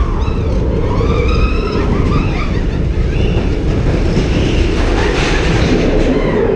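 Loud, steady low rumble of a moving vehicle, with higher wavering squeals or calls over it.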